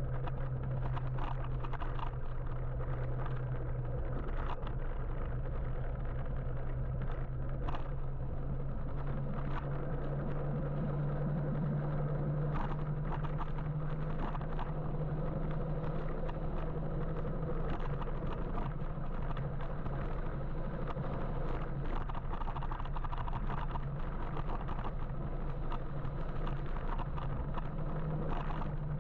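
Steady road noise from riding an electric motorbike in city traffic: wind and tyre rumble with a constant low hum and no engine note.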